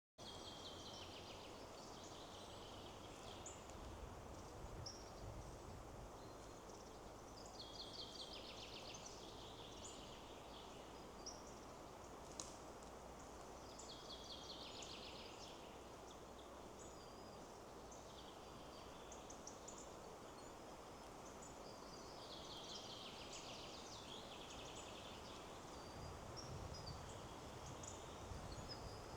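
Forest ambience, faint: songbirds sing short phrases of quick falling notes, one phrase every six or seven seconds, over a steady rush of wind in the trees. Low rumbles come twice, early and again near the end.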